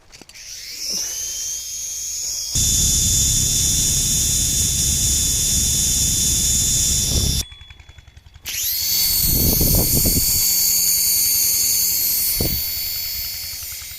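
Toy helicopter's single coreless motor spinning its coaxial rotors: a high whine that rises in pitch as it spins up, with a loud low rumble for a few seconds. It cuts out briefly about seven and a half seconds in, spins up again with the same rising whine, runs steadily and fades near the end.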